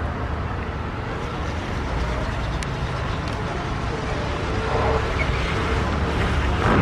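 Train rolling past with a steady low rumble, and a single sharp click about two and a half seconds in.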